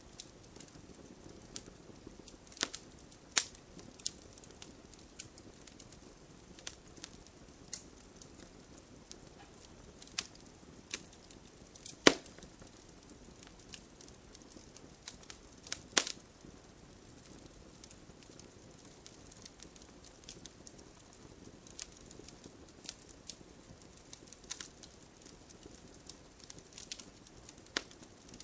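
Wood fire crackling: irregular sharp pops and snaps, a few louder cracks among them, over a soft steady hiss of rain.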